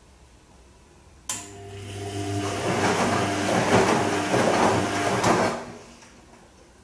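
Bosch Serie 2 VarioPerfect washing machine's water inlet valve clicking open a little over a second in, then a steady mains hum from the valve over rushing, hissing water as it tops up the drum. It clicks shut after about four seconds and the hiss dies away.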